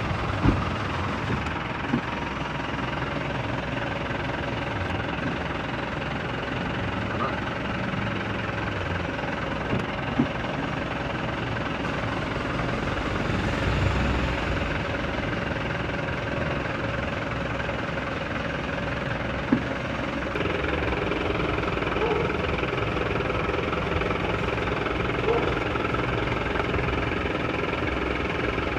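A vehicle engine running steadily at idle, with a few sharp clicks over it. The running sound shifts and grows slightly louder about twenty seconds in.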